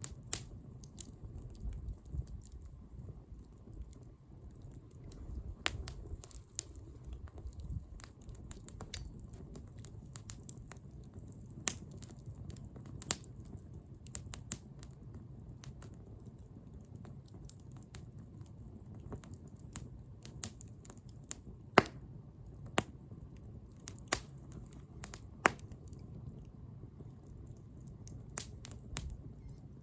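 Wood fire crackling, with sharp pops every second or two over a low steady rumble of the burning.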